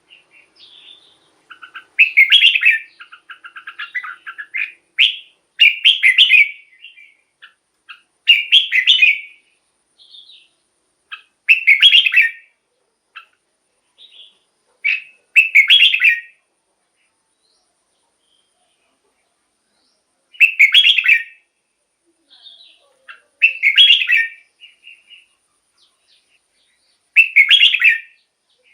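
Red-whiskered bulbul singing: eight loud, short song phrases about every three to four seconds, with soft chirps between them and a pause of a few seconds past the middle.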